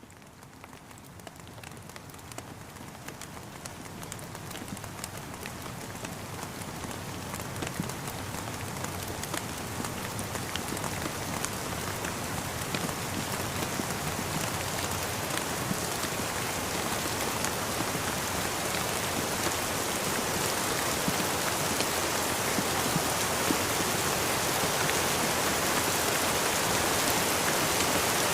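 Steady rain falling, with many individual drops tapping through the hiss; it fades in from near silence and grows steadily louder.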